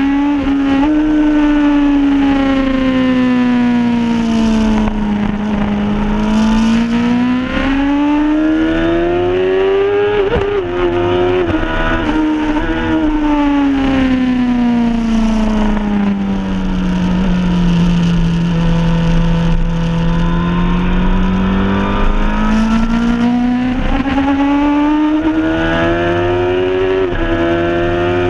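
Suzuki race bike's engine heard from an onboard camera on the bike, rising in pitch as it accelerates and falling as it slows for corners, with a long drop in pitch midway. There are quick jumps in the note at gear changes, over a steady rush of wind.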